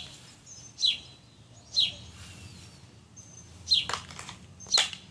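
A bird calling over and over, a short sharp falling chirp about once a second. Near the end comes a click as the Glock 26 is pushed home into the Kydex holster and locks in.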